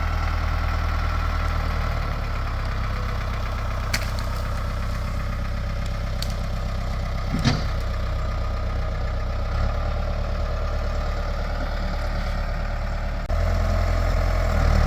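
Backhoe engine running steadily while the machine holds a whole uprooted tree; the engine gets louder about thirteen seconds in. A couple of faint brief clicks are heard over it.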